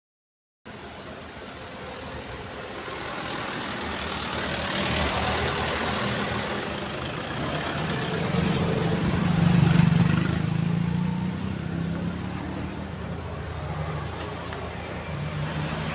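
Motor vehicle engine running close by over outdoor road noise, growing louder to a peak about ten seconds in and then easing off.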